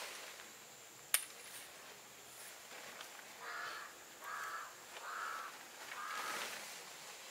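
A bird calls four times in a row, short calls well under a second apart. A single sharp click about a second in, with tent fabric rustling as it is handled.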